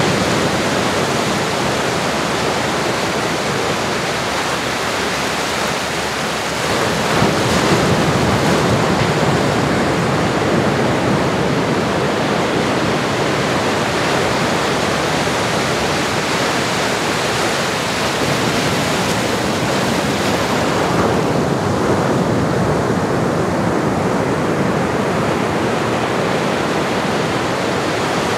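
Ocean waves washing on a shore, a steady rushing hiss that swells and eases slowly, with one rise about seven seconds in.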